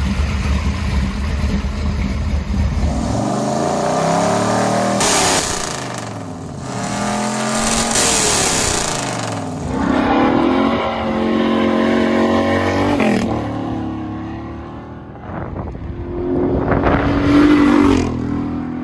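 A V8 car engine rumbles low for the first few seconds, then revs up and down repeatedly with rising and falling pitch, with two louder rushing surges about five and eight seconds in.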